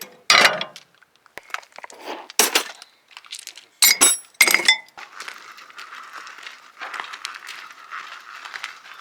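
Metal hand tools and car parts clinking and clanking: four or five sharp metallic knocks in the first five seconds. These are followed by a steady rasping, scraping noise.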